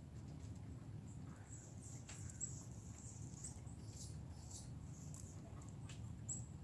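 Faint, short, high-pitched animal chirps and ticks, scattered irregularly, over a low steady outdoor rumble.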